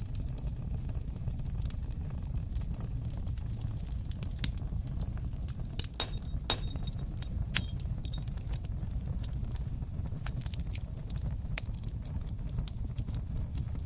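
Wood fire crackling in a fireplace: a steady low rumble of burning with many small crackles and pops throughout, and a few louder pops in the middle, the loudest about seven and a half seconds in.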